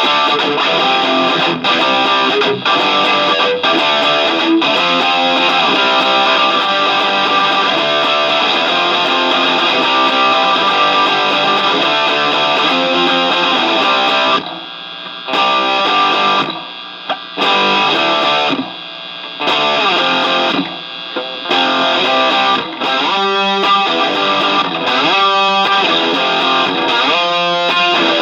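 Demo recording of a rock band song led by distorted electric guitar, with several short stop-time breaks about halfway through.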